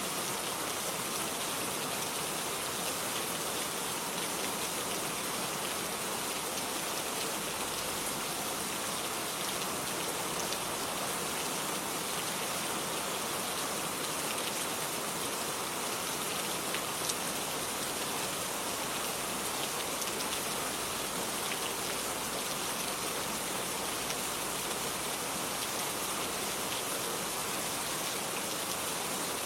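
Steady rain falling on garden surfaces, an even hiss with scattered individual drop ticks.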